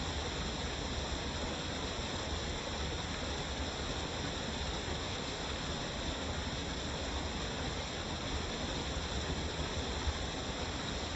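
Waterfall: an unbroken rush of falling water with a deep low rumble under it.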